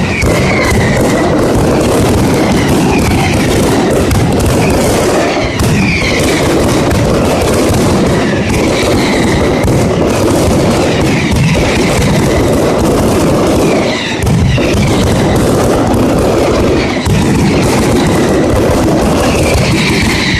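Mascletà firecrackers going off in a dense, unbroken barrage of bangs. Short falling whistles cut through every couple of seconds.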